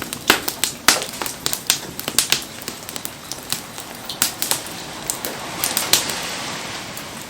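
Wood bonfire crackling, with irregular sharp pops and snaps, and a short stretch of hissing about five to seven seconds in.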